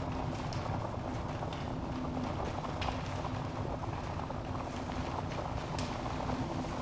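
Wood fire crackling in a fireplace: a steady low rumble of burning with about five sharp pops scattered through.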